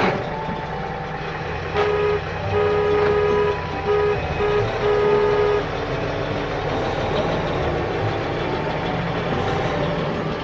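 A vehicle engine running with a steady low rumble while a horn is sounded in about five honks, one longer than the rest, between about two and six seconds in.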